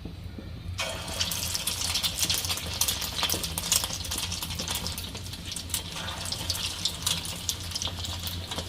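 Breaded snacks going into hot oil in a kadai: the oil bursts into a loud sizzle about a second in and keeps crackling and popping densely.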